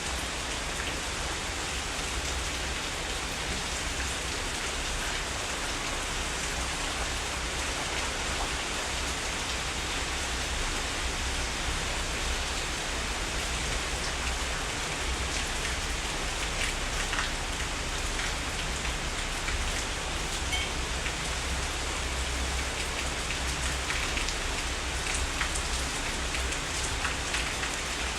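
Steady heavy rain falling, an even hiss with scattered drops pattering on surfaces close by, over a low steady rumble.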